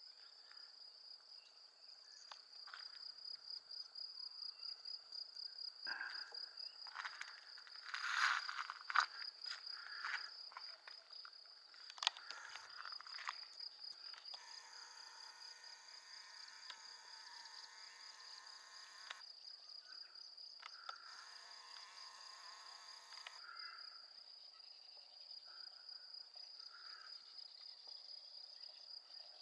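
Crickets trilling in a steady, faint, high-pitched pulsing chorus. A few short calls and sharp clicks break in during the first half, and a faint steady tone sounds twice for a few seconds in the second half.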